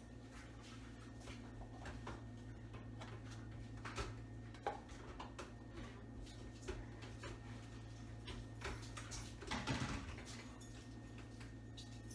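Faint clicks, knocks and rustles of packages being handled and put away, over a steady low hum. A brief louder scuff comes about ten seconds in.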